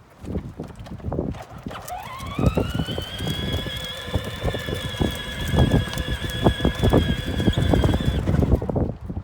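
A high whine rises in pitch about two seconds in, holds steady for about six seconds and then cuts off, over irregular knocking and rattling.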